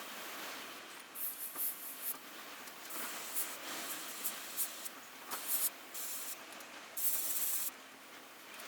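Airbrush spraying paint in a series of short hissing spurts, with a longer spurt of nearly a second near the end.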